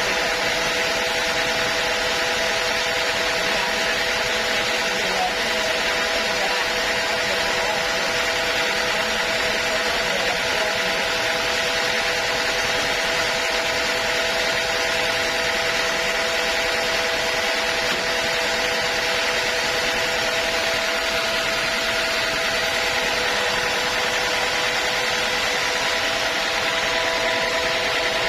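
Sawmill saw running steadily through a teak log, a constant cutting noise with a steady machine hum under it.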